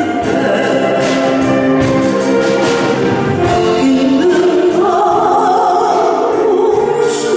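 Saxophone ensemble playing a melody in several parts with sustained notes, over a steady beat.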